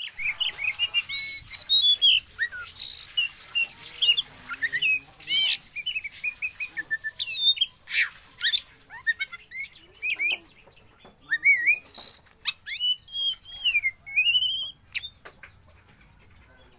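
Pet songbird singing a fast, varied string of whistled chirps and sweeping notes, stopping near the end. The owner calls it fierce and puts this down to too few crickets in its feed.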